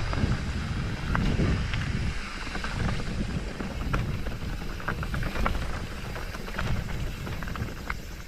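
Wind buffeting the microphone as an uneven low rumble, with scattered light crunches of footsteps on a stony path.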